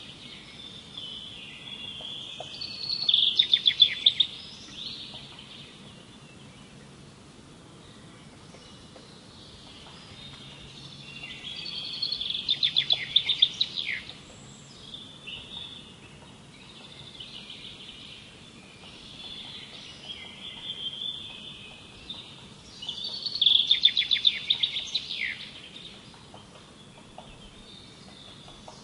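A songbird singing three phrases about ten seconds apart, each a run of high notes that speeds into a rapid trill, over a faint outdoor background.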